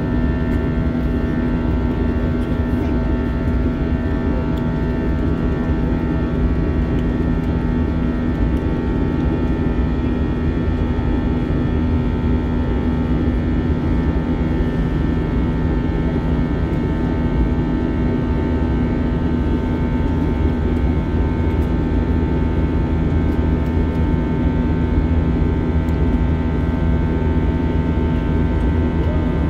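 Steady in-flight cabin noise of an Airbus A321 with IAE V2533-A5 engines: an even rush of air with a constant hum and several steady tones, unchanging throughout.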